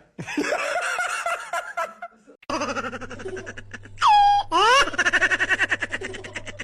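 Someone laughing; after a cut about two and a half seconds in, more rapid pulsing laughter over a low hum, with a brief sliding tone, falling then rising, about four seconds in.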